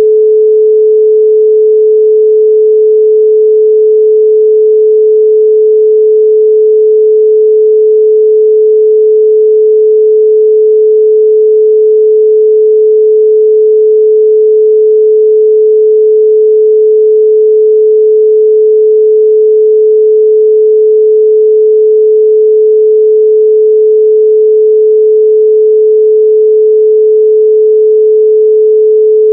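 A pure 432 Hz sine tone held at one steady, unwavering pitch, with no overtones.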